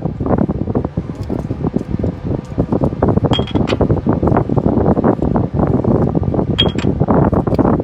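Continuous rough rushing noise with two short metallic clinks, about three seconds in and again near the end.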